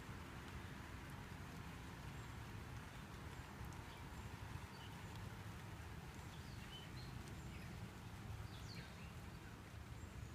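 Faint outdoor background noise: a steady low rumble with a few short, high chirps in the middle.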